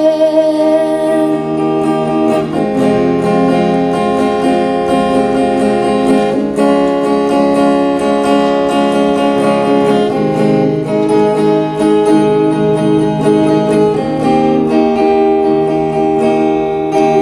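Acoustic guitar strumming sustained chords in an instrumental break, the chord changing about every four seconds.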